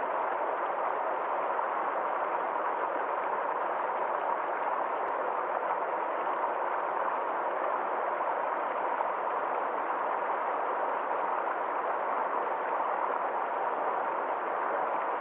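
Forest stream flowing: a steady, even rush of water with no change in level.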